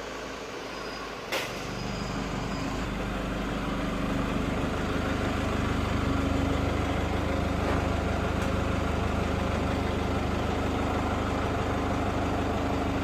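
A sharp click, then an engine comes up to a steady low idle and keeps running evenly.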